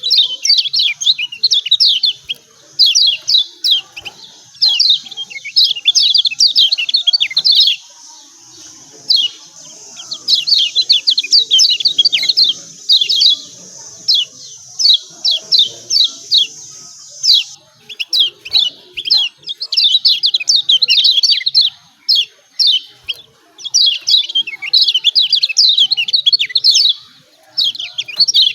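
Kecial kuning (Lombok yellow white-eye) giving rapid 'ciak ciak' chirping calls in bursts of a second or two, repeated with short pauses between them.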